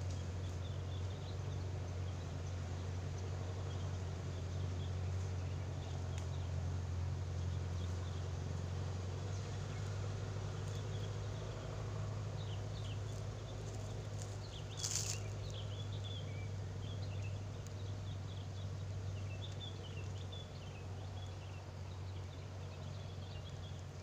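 Small birds chirping faintly, short scattered calls mostly in the second half, over a steady low hum. A single sharp click about fifteen seconds in.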